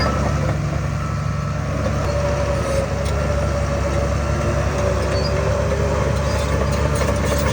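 Heavy diesel earthmoving machinery running steadily: a deep, even engine drone with a steady whine above it.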